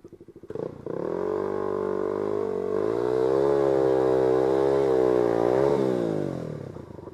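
Single-cylinder dirt bike engine revving up under throttle. It climbs in pitch, holds high for a few seconds, then drops back and fades away near the end.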